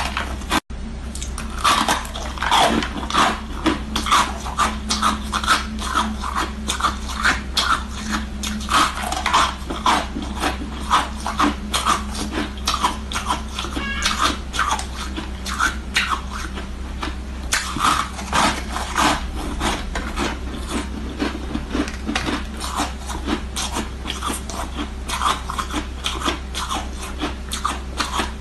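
Ice sticks being bitten and crunched: a rapid, irregular run of crisp cracks and crunches, over a steady low hum.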